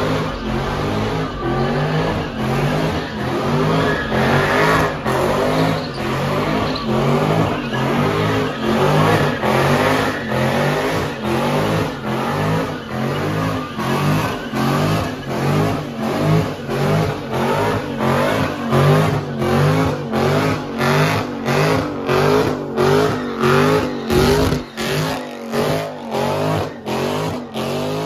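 Car engine revved hard over and over, its pitch climbing and dropping about twice a second, during burnouts in thick tyre smoke.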